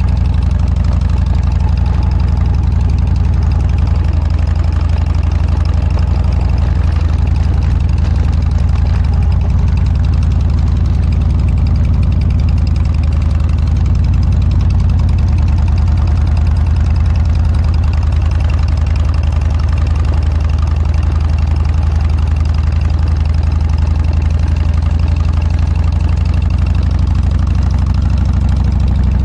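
Harley-Davidson Dyna's air-cooled V-twin running through an aftermarket Motorstage muffler, a loud, steady exhaust note that holds nearly the same pitch throughout.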